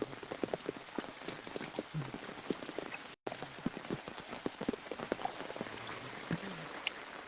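Rain falling, with many separate drops striking close by against a steady hiss. The sound breaks off for a moment about three seconds in.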